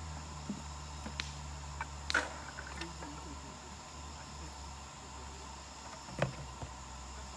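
Wood campfire crackling, with a few sharp pops and snaps, the loudest about two seconds in and another near the end, over a steady low hum.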